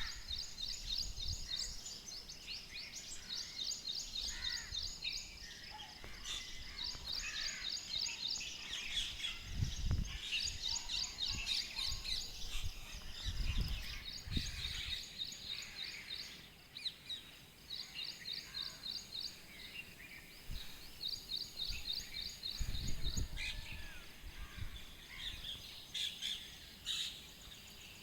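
Several birds singing and chirping in a morning chorus, with fast runs of repeated high chirps again and again. A few short low rumbles come and go underneath.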